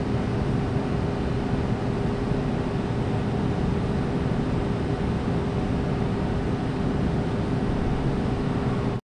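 Steady hiss and hum of a camcorder recording an empty basement, with one constant low tone under the noise; it cuts off suddenly near the end.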